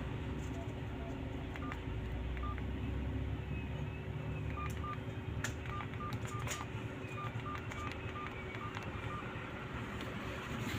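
A feature phone's keypad beeping as keys are pressed to enter a code: a string of short beeps, all at one pitch, coming singly, in pairs and in quick runs, with a few clicks, over a steady low hum.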